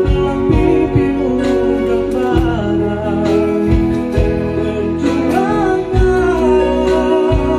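Live band music: a singer's voice over sustained guitar and keyboard chords, with low drum thumps every second or so.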